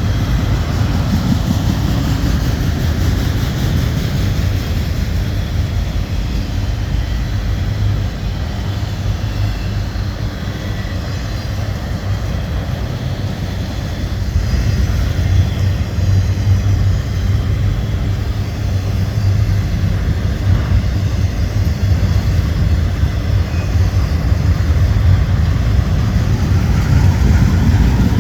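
A long autorack freight train passing close by, a steady, heavy low rumble of wheels on rail. It grows slightly louder about halfway through and again near the end.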